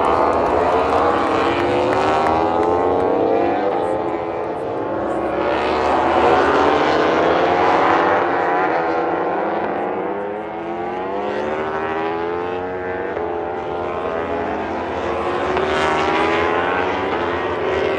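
Racing motorcycle engines at full revs, several bikes at once, their pitch rising and falling as they accelerate, shift and sweep past.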